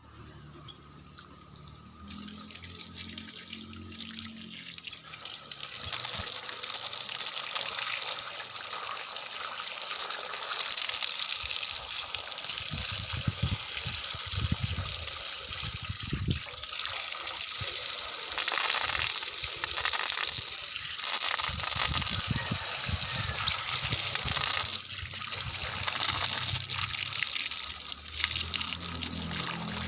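Running water gushing and splashing, rinsing out a bird cage; it starts faint and grows louder about six seconds in, rising and falling as the flow hits.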